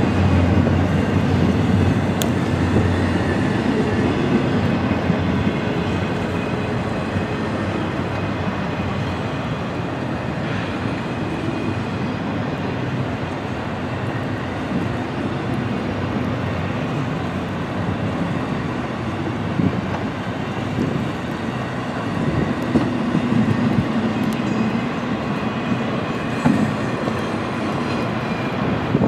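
Double-stack intermodal freight cars rolling past at close range: a steady rumble and rattle of steel wheels on rail, with a few sharper clanks in the second half.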